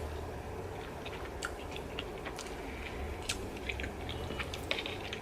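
A person chewing a mouthful of pasta, with faint scattered clicks and soft mouth sounds.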